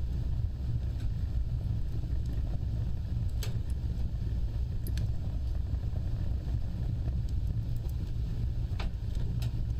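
Wood fire burning: a steady low rumble of flames with a few sharp crackles and pops scattered through it.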